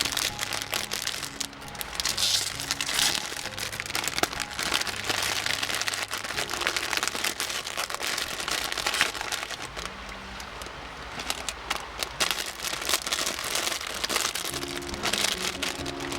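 Crinkling and crackling of plastic packaging being handled, in dense irregular bursts, over soft background music.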